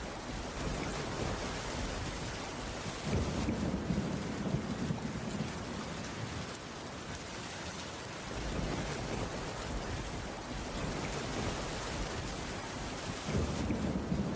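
Steady rain falling on a wooden cabin roof, with a low rumble swelling up about three seconds in and again near the end.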